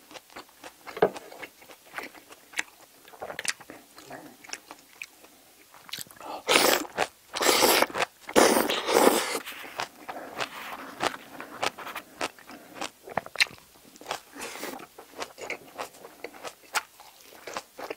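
Close-miked chewing and crunching of spicy braised seafood and bean sprouts, many small wet clicks and crunches. About six seconds in comes a louder stretch of slurping from a bowl held to the mouth, lasting about three seconds.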